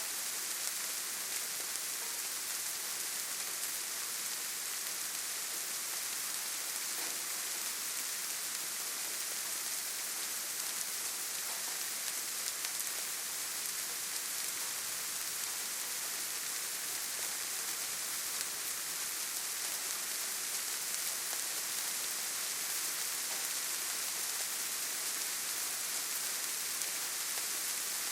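Steady rain falling on leaves and forest ground, a continuous even hiss with no letup.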